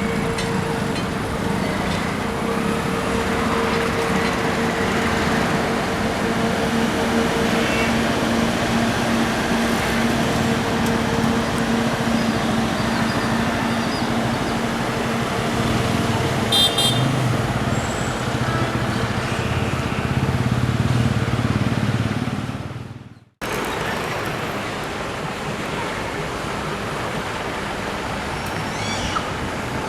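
Road traffic noise: vehicle engines running with a steady drone, and a short horn toot about two-thirds of the way through. The sound fades out and cuts about three-quarters of the way through, then similar traffic noise resumes.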